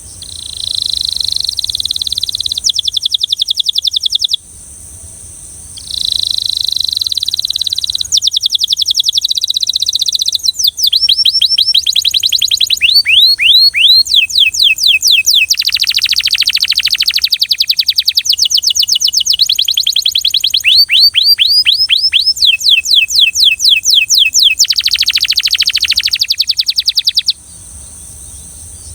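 Belgian canary singing: fast rolling trills, quick series of repeated notes and downward-sweeping notes, with a short pause about four seconds in and then continuous song until shortly before the end. A steady high-pitched whine sits under the song.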